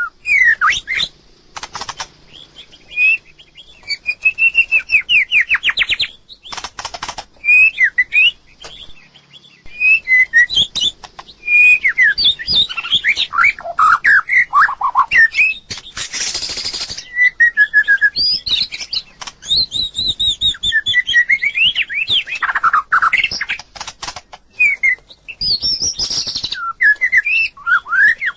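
White-rumped shama singing: a run of varied, fluty whistled phrases with rapid rising and falling glides, delivered in short bursts with brief pauses. A short rustling burst comes about halfway through.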